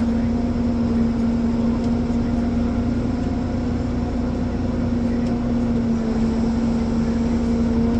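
Ponsse Elephant forwarder's diesel engine running at steady revs, a constant hum with no change in pitch.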